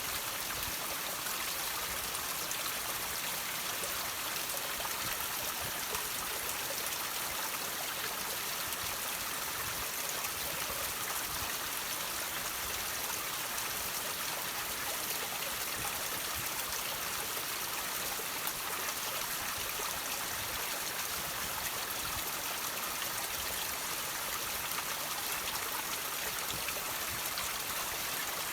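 Water running and trickling over rocks in a steady, even flow, with most of its sound in the higher pitches.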